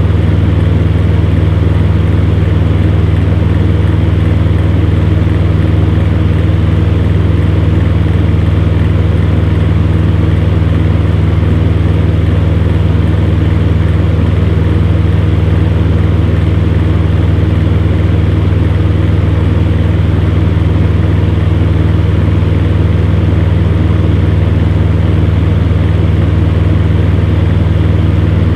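Electric fan heater running steadily: a constant low hum with an even rush of air over it.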